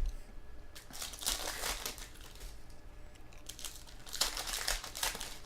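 Crinkly packaging being handled, crinkling and rustling in two spells: one about a second in and one near the end.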